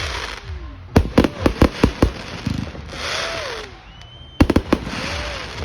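Fireworks going off: a rapid string of sharp bangs about a second in and another near the end, with a burst of hissing crackle between them and a few short gliding tones.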